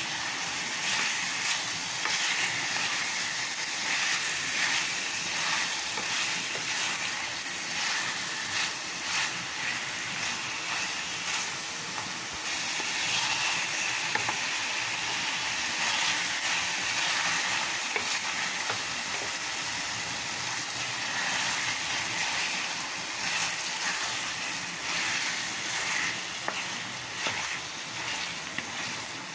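Chicken in masala sizzling in a metal pot while a wooden spatula stirs it, a steady frying hiss broken by frequent scrapes and knocks of the spatula against the pot.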